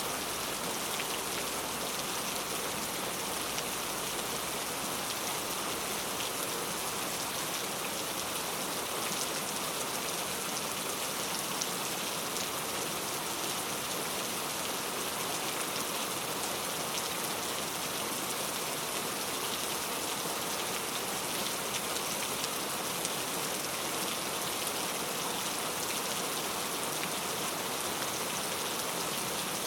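Steady rain falling on a surface, an even hiss dotted with many individual drop hits, unchanging throughout.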